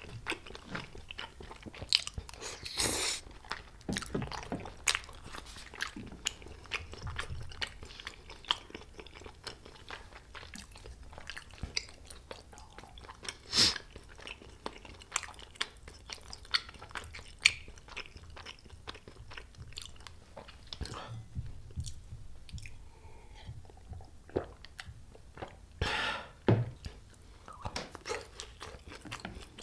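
Close-miked chewing and biting of spicy tteokbokki rice cakes and cheese gimbap, with many sharp mouth and chopstick clicks scattered throughout and a few louder bites.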